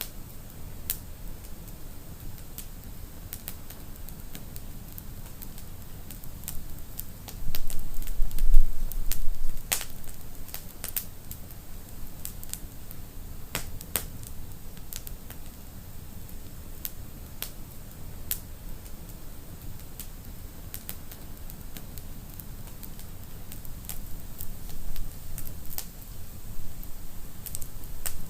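Wood fire crackling in a fireplace: scattered sharp pops and snaps over a low steady rumble. About eight seconds in, a louder low rumble swells for about two seconds.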